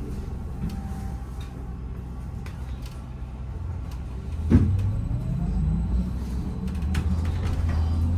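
Cabin sound of a VMZ Avangard trolleybus underway: a steady low rumble, a sharp knock about halfway through, then the electric traction motor's whine rising as the trolleybus picks up speed.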